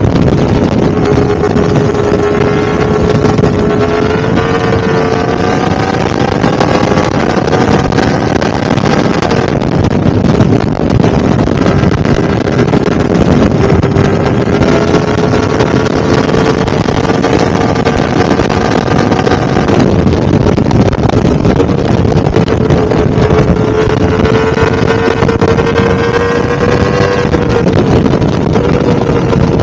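Yamaha R1-M's crossplane inline-four running at a fairly steady speed, its engine note drifting a little up and down several times as the throttle changes.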